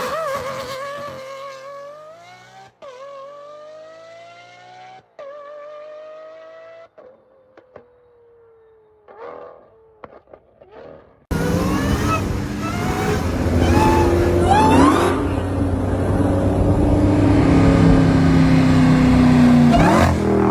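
A car engine accelerating through the gears, its pitch climbing after each of three quick gear changes while it fades into the distance. About eleven seconds in, a sudden cut to a second car engine running loud and hard.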